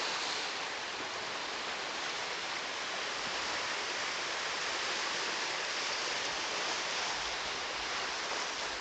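Steady, even rushing noise like running water, with no rhythm or pauses.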